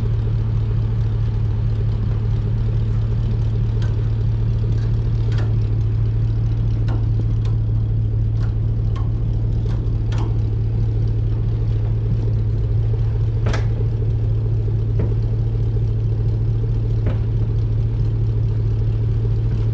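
Steady low drone of a pickup truck driving, heard from inside the cab, with scattered light clicks and rattles.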